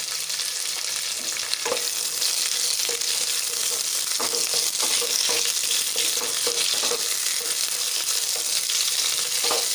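Cut vegetables (potato, flat beans, pumpkin and freshly added brinjal) sizzling in hot mustard oil in a kadai, with a spatula stirring and scraping the pan a few times.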